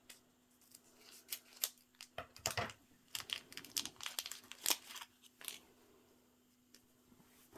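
Small crinkling, rustling and light clicking of hands handling tiny plastic miniature-kit parts and packaging while filling a miniature pot with dirt: a run of quick taps and rustles that dies away about two seconds before the end. A faint steady hum lies underneath.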